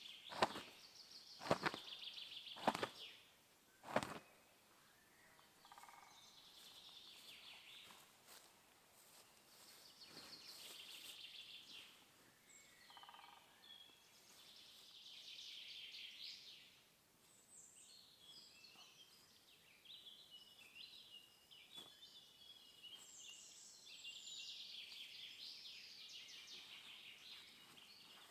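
Songbirds singing in bursts of quick chirps, with four sharp knocks in the first four seconds.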